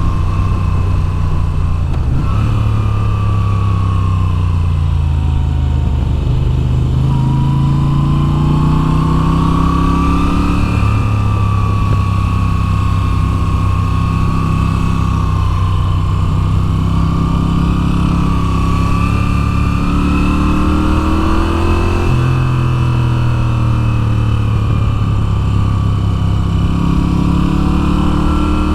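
2022 Moto Guzzi V7's air-cooled V-twin under way. The engine note climbs steadily and then drops or jumps at several gear changes, about every four to six seconds, over a steady low rush.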